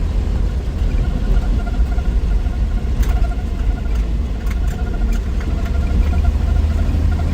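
1963 Willys Wagon's 230 Tornado overhead-cam six with road noise, a steady low rumble while driving. A few sharp clicks come about three to five seconds in.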